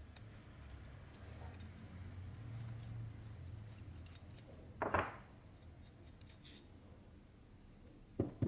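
Small metal carburetor parts and hand tools being handled, with two sharp metallic clinks, one about five seconds in and one near the end, over a faint low hum.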